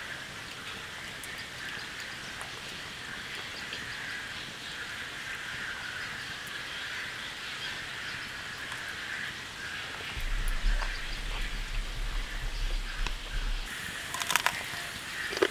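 Steady rain falling, an even hiss. A low hum comes in about two-thirds of the way through for a few seconds, and a few sharp knocks come near the end.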